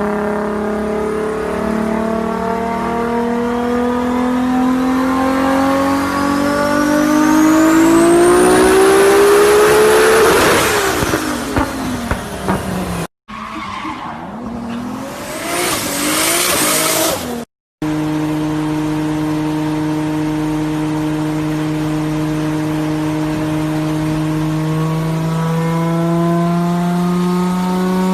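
Toyota Supra 2JZ straight-six revving steadily higher for about ten seconds, with a turbo whistle rising in pitch alongside it. After a sudden cut, a few seconds of tyre squeal over the engine. After another cut, the engine runs at a steady pitch that climbs slightly near the end.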